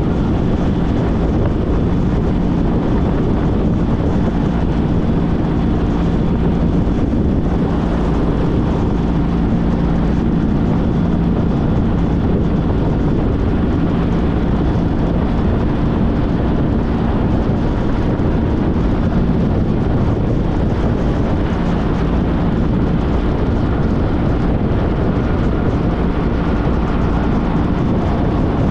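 2014 Honda CTX1300's V4 engine running steadily while riding, with wind noise over the microphone.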